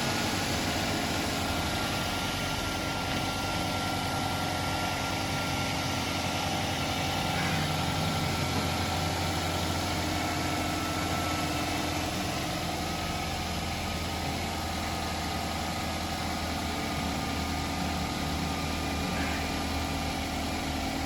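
Toyota GLI car engine idling steadily.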